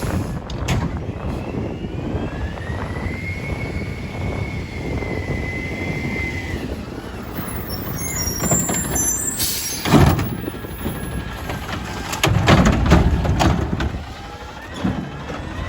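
Diesel garbage truck running with a steady rumble. A high hydraulic whine rises and holds for about four seconds. About ten seconds in comes a loud burst, then a run of heavy clanks a couple of seconds later, typical of the Curotto Can arm and body working through a pickup cycle.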